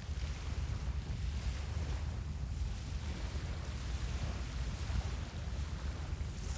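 Wind buffeting the phone's microphone: a low, uneven rumble over a steady hiss.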